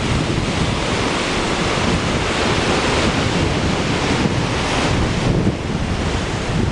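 Typhoon wind blasting across the microphone: a loud, dense rush of noise with a heavy low rumble, swelling and easing slightly in gusts.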